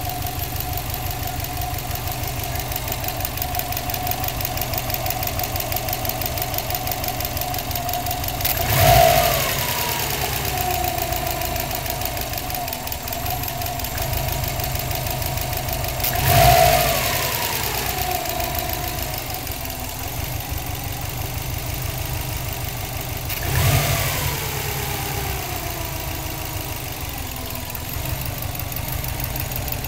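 Bugeye Subaru WRX's turbocharged 2.0 L flat-four idling with a steady ticking. The throttle is blipped three times, the revs rising briefly and falling back to idle each time. The cause of the tick is unknown.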